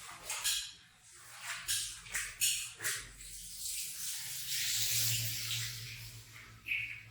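Wet rug being washed: about five short, hissy swishing strokes, then a longer hiss lasting two to three seconds, over a low steady machine hum.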